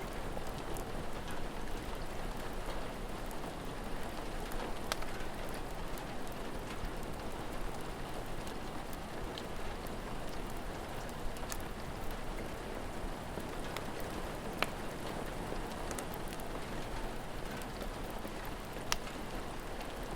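Steady rain falling, with a few sharp, widely spaced crackles from a wood fire.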